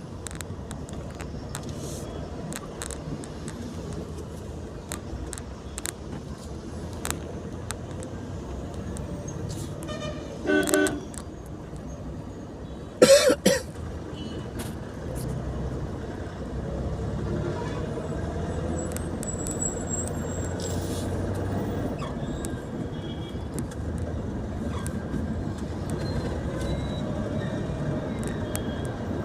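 Steady road and traffic noise from a vehicle on the move, with two short vehicle horn honks about ten and thirteen seconds in, the second the louder.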